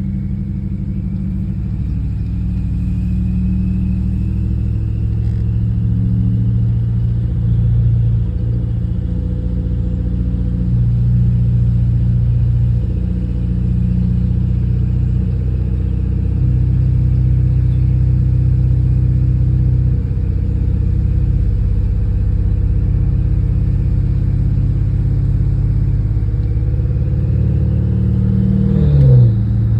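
BMW 550i's twin-turbo 4.4-litre N63TU V8 through a 3-inch straight-pipe exhaust, droning steadily while cruising at very light throttle. Near the end the pitch briefly dips and comes back up with a short louder swell.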